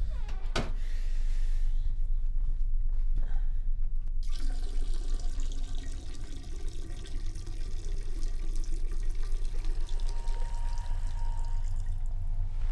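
Bathroom sink tap turned on and running water into the basin, starting about four seconds in, after a single sharp click near the start. A steady low hum lies under it throughout.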